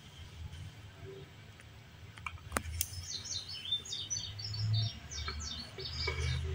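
A small bird chirping a quick run of short high notes, starting about three seconds in, over a low rumble, with a sharp click just before.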